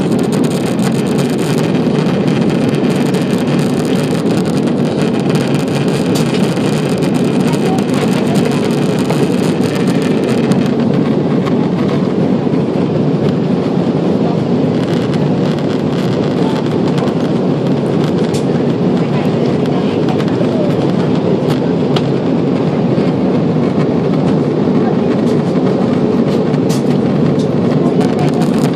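Cabin noise of an Airbus A340-600 in flight: a steady, loud rumble of the engines and rushing air. The higher hiss eases about ten seconds in.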